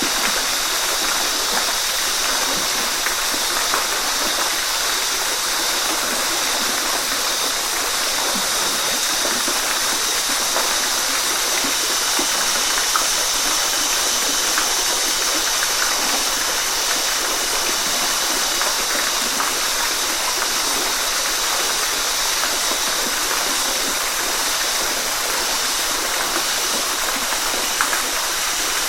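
Steady rushing of falling water: a waterfall's continuous hiss and splash, even in level and mostly high-pitched.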